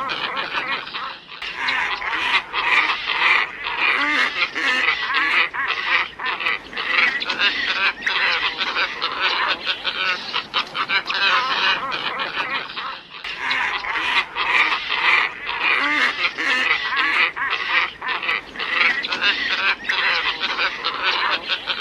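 A flock of glossy ibises calling in a dense chorus of hoarse, grating grunts, played as a bird-trapping lure call. The recording seems to loop, with a short break about a second in and again about thirteen seconds in.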